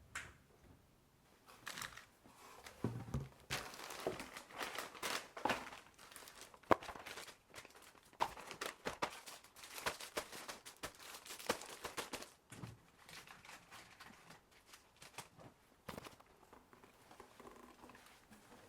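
Packaging crinkling and rustling in handling, with small clicks and knocks.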